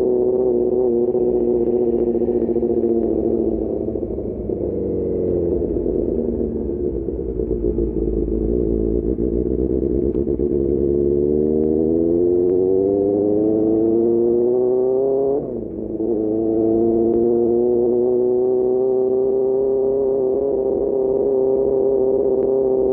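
QJMotor SRK600 inline-four motorcycle with an Austin Racing GP1R exhaust, running on the road: the engine note drops off about four seconds in, climbs steadily as the bike accelerates, then dips sharply at an upshift about fifteen seconds in and settles into a steady cruise.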